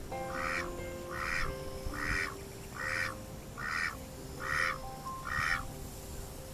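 White Pekin duck quacking seven times in an even series, a little under one call a second. The uploader takes the steady calling for a lone duck calling its mate.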